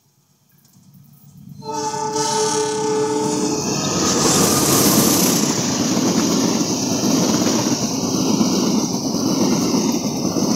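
CC 206 diesel-electric locomotive sounding its horn, a chord of several steady notes held for about two seconds, as it closes in. Then the loud rumble and rush of the locomotive and its passenger cars passing close by.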